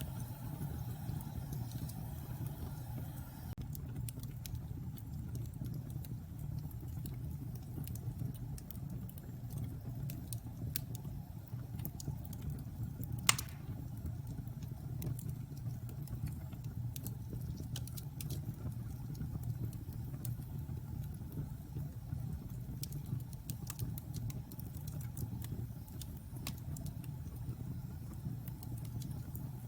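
Wood fire burning in a fireplace: a steady low rumble of flames with scattered crackles, and one loud pop about 13 seconds in.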